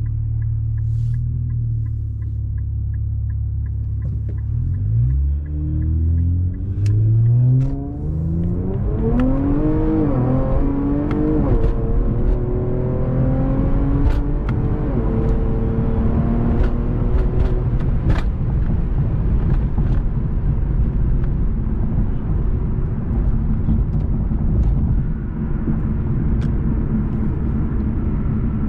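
Infiniti Q50 S V6 with resonated lower dump pipes and cat-back exhaust, heard from inside the cabin. It drones steadily at first, then about five seconds in the revs climb and it pulls hard under acceleration for several seconds. It then settles into a steady cruising drone, with a few sharp clicks over it.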